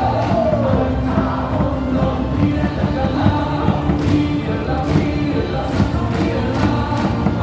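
Baseball stadium crowd singing a cheer song in unison over music with a steady beat.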